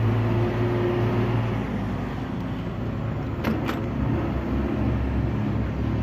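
Steady low mechanical hum, with two short clicks in quick succession about three and a half seconds in.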